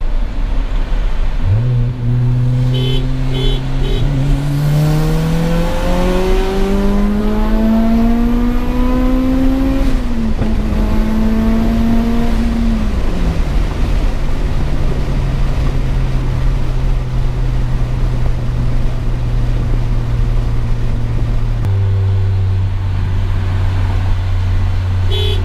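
Turbocharged Toyota Celica GTS four-cylinder engine heard from inside the cabin, pulling hard with its pitch climbing steadily for about eight seconds. The pitch steps down about ten seconds in, then falls away a few seconds later as the throttle is lifted, and the engine settles into a steady cruise.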